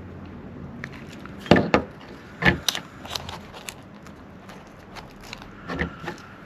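A few sharp clicks and knocks of small objects handled on a tabletop during hot-glue crafting: a loud pair about a second and a half in, another pair about a second later, and a fainter one near the end.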